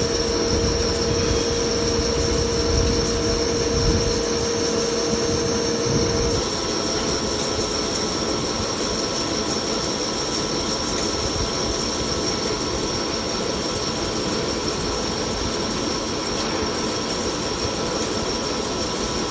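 CNC lathe running during a turning job, a steady machine noise with a high whine. A mid-pitched whine and the heavier low rumble stop about six seconds in, and the machine runs on more evenly.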